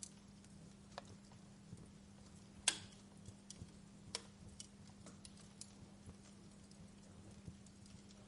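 Fireplace crackling faintly, with scattered irregular pops and one sharper pop a little under three seconds in, over a low steady hum.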